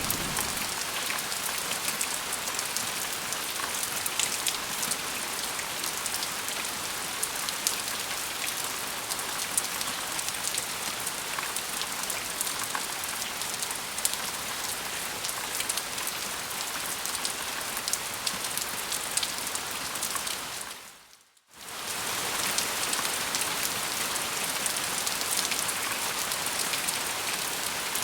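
Steady rain falling on a surface: a dense hiss with many individual drops ticking through it. About 21 seconds in it fades out almost to silence for a moment and comes straight back.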